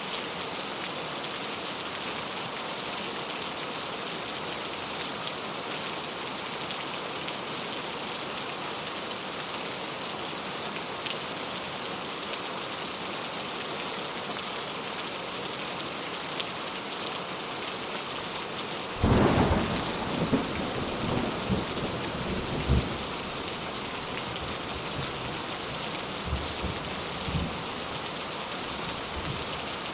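Steady rain falling, with a sudden clap of thunder about two-thirds of the way in that rolls on in low rumbles for several seconds.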